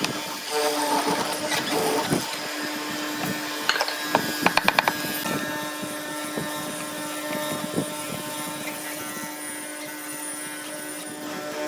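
Woodworking shop sounds: a steady machine hum, with scattered wooden knocks and a quick run of about five sharp taps about four seconds in.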